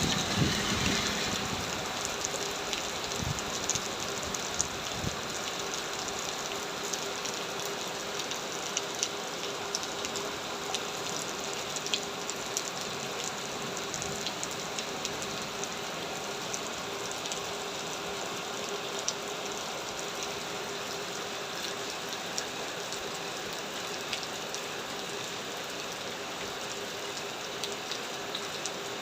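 Heavy rain falling, a steady hiss scattered with many sharp individual drop hits on a hard surface, under a faint steady hum.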